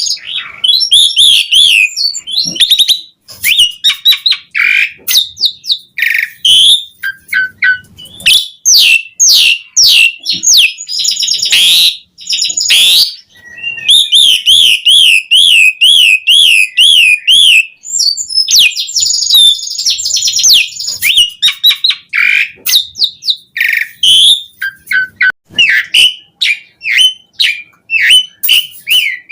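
Asian pied starling (jalak suren) singing a loud, continuous, varied song of rapid chirps, whistles and sweeping notes, with a long wavering trill partway through. The song is packed with 'isian', mimicked fill-in calls.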